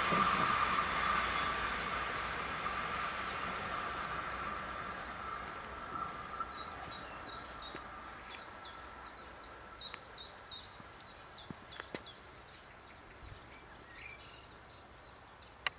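Passenger train running away down the line, its wheel-on-rail noise fading steadily. From about halfway a small bird chirps over and over as the train dies away.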